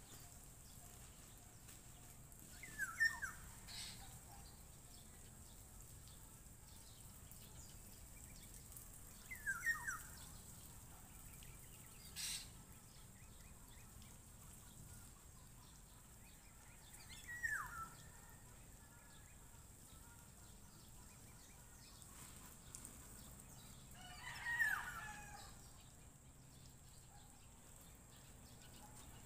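A bird calling in short falling calls, four times about seven seconds apart, the last one a little longer. A single sharp click comes about twelve seconds in, over a faint steady outdoor background.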